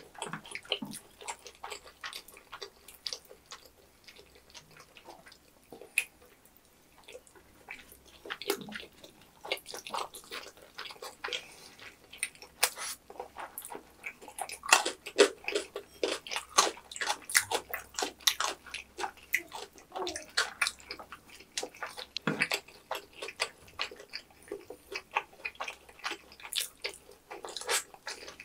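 Close-up mukbang eating sounds: wet chewing and lip smacks of two people eating sauce-covered tteokbokki rice cakes and fried snacks. They are sparse at first and come thick and fast from about a third of the way in.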